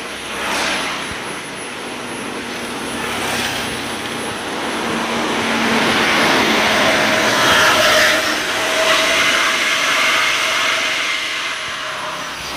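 Intercity bus engine with a modified 'suos' exhaust giving a loud rushing, hissing whoosh as the bus passes, building to a peak about eight seconds in and then easing off.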